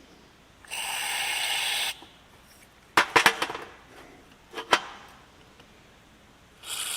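Two short bursts of carburetor cleaner sprayed from an aerosol can into a carburetor's passages, each a steady hiss of about a second, the second starting near the end. In between, a few sharp clicks and knocks of the carburetor parts being handled.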